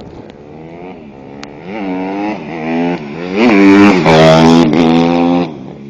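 Honda CRF150R's four-stroke single-cylinder engine revving hard, its pitch climbing and dropping with each throttle burst and gear change, growing louder to a peak in the second half, then cutting off suddenly near the end as the throttle is shut.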